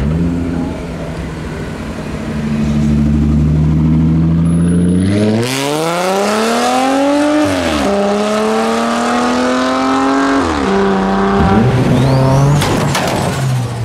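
Car engine pulling away under full throttle: the revs climb steeply, fall sharply at an upshift, climb again and fall at a second upshift. Another car's engine and a few sharp cracks follow near the end.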